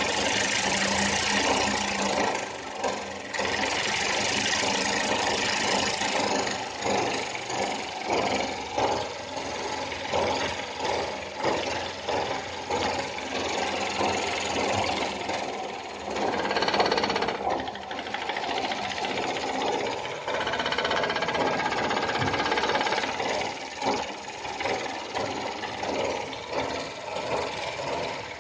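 Small home-built steam engine running, its knocks coming quick and uneven over a continuous hiss of steam. A brief louder hiss comes a little past halfway.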